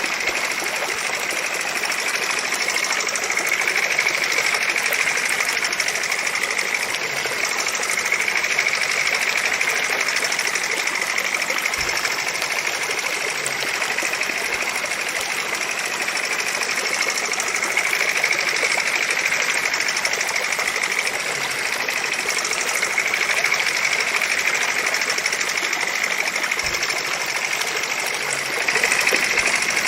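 Miniature model engine running steadily with a fast, high-pitched mechanical whir that swells and eases slightly every few seconds.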